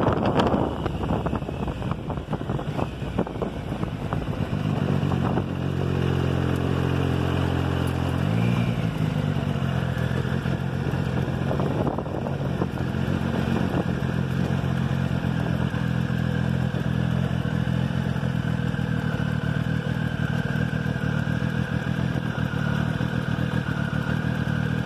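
Motorcycle engine running at low revs through a bike-mounted phone microphone, with wind noise easing as it slows. A steady low engine hum sets in about five seconds in, steps up in pitch about eight seconds in, then holds steady.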